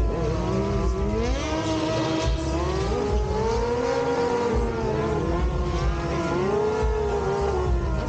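Motorcycle engines revving, their pitch rising and falling continuously, with more than one engine heard at once.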